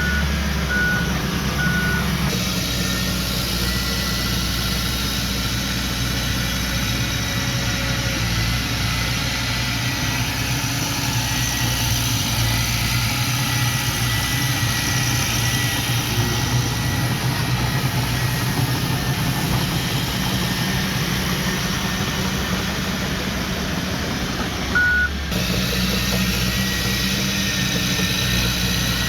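Heavy diesel earthmoving machinery running steadily under load, from the bulldozer and dump trucks. A reversing alarm gives three short beeps near the start and one more near the end.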